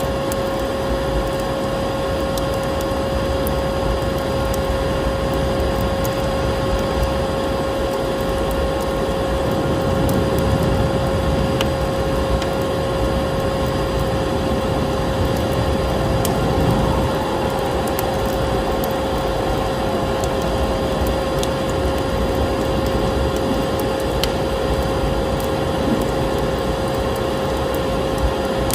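Vacuum cleaner running steadily with a constant whine, mixed with the scattered small crackles of a wood fire in a fireplace.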